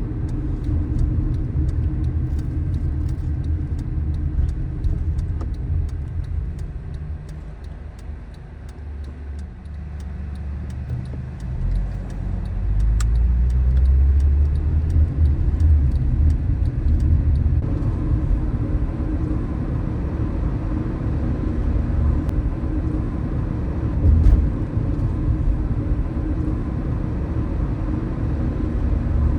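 Car being driven on city streets: steady low rumble of engine and tyres on the road, easing off about eight seconds in and building again a few seconds later, with a brief louder low thump near the end.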